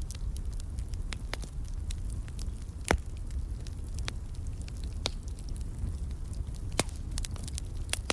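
Wood fire in a fireplace crackling, with irregular sharp pops over a steady low rumble; one louder pop about three seconds in.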